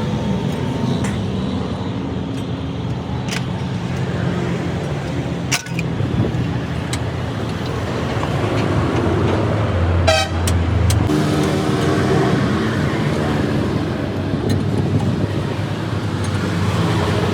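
Busy road traffic: vehicle engines running and passing, with a horn honking and a few sharp knocks.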